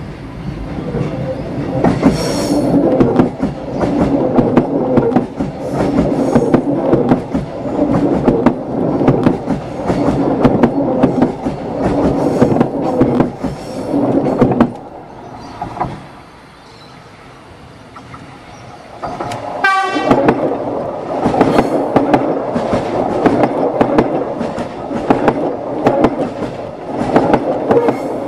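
Six-car electric suburban trains crossing a timber trestle bridge, heard from directly beneath the deck: a heavy rumble with a steady run of sharp knocks as the wheels pass over. The first train, a Comeng, fades out about fifteen seconds in. After a few quieter seconds the second, an X'Trapolis, comes over just under twenty seconds in.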